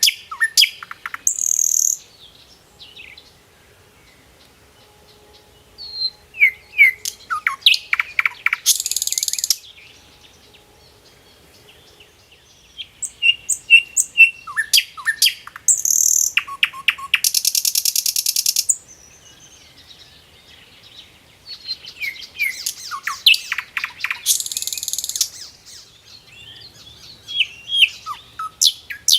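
Bird singing in repeated phrases of quick chirps and sweeping notes, each ending in a high buzzy trill. A phrase comes every six to eight seconds, with quiet gaps between.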